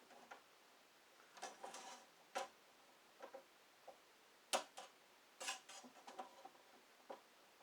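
Scattered light clicks and taps of handling, irregular and faint, with a sharper click about four and a half seconds in.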